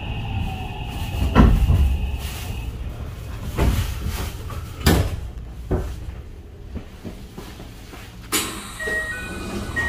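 Inside a stopped Kintetsu 23000 series train car: a steady low hum with about six sudden thuds and knocks, like doors or fittings being moved. A few short high beeps come near the end.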